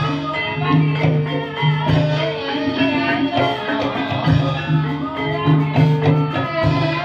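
Live dangdut-style ebeg accompaniment: a repeating bass line under regular drum strikes and a melodic line, with no singing.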